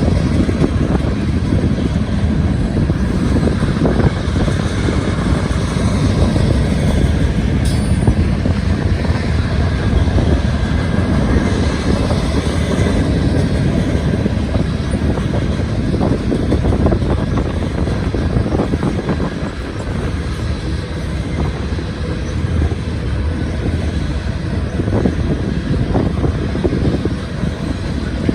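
Long CSX freight train rolling past, a steady loud rumble of freight cars on the rails with continual wheel clatter.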